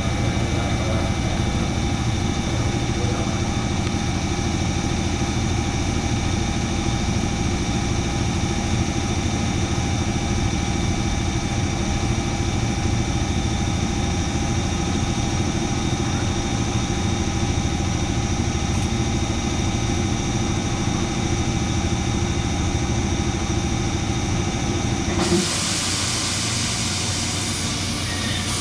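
Electric commuter train running steadily: a low rumble with a steady hum of several tones. About 25 seconds in, the rumble suddenly drops away and a high hiss sets in.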